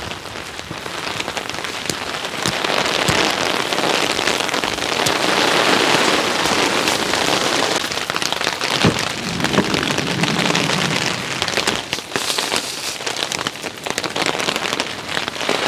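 Heavy thunderstorm downpour: steady rain with the sharp clicks of individual drops striking a surface close by.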